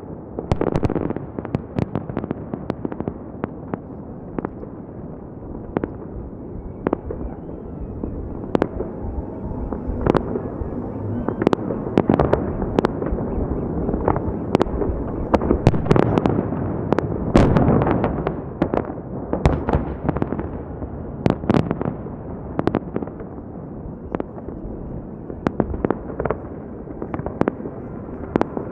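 Fireworks salute: many sharp bangs of shells bursting at irregular intervals, several close together at times, over a continuous rolling rumble.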